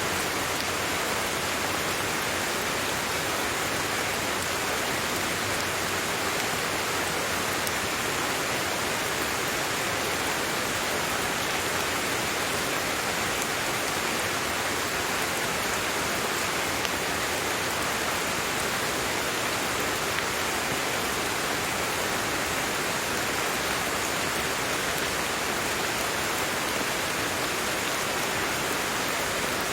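Steady, unbroken rain falling, an even hiss with faint individual drop ticks.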